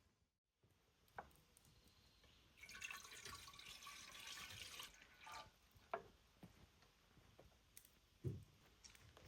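Water pouring or running for about two seconds, with a few soft knocks and clicks before and after, in a small room.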